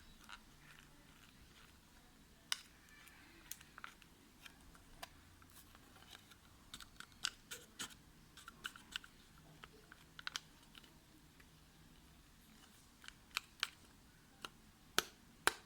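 Scattered light clicks and crinkles of a small packet being handled and tapped to empty the last grains into the tank, with a few more close together near the end.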